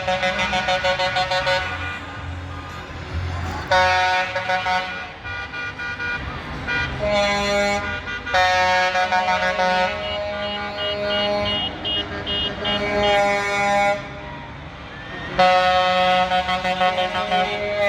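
Truck air horns blasting in repeated long blasts, each lasting one to two seconds, over the low sound of truck engines running. A short run of high beeps sounds near the middle.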